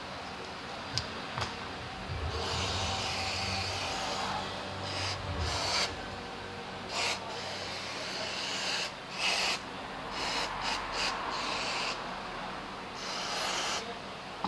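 Irregular bursts of scraping, rubbing noise from hand work on a scooter's brake caliper, stopping and starting every second or two.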